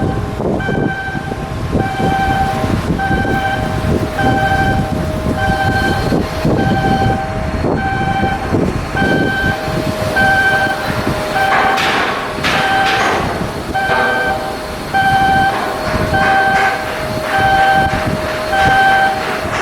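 Electronic warning beeper sounding in a steady on-off pattern, a little more than once a second, over the noise of heavy shipyard work. A louder burst of metal clatter comes about two-thirds of the way through.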